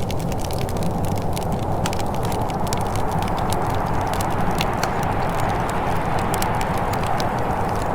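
Wood fire crackling in a fireplace: a steady low rush of burning, with many small, sharp pops and snaps scattered irregularly throughout.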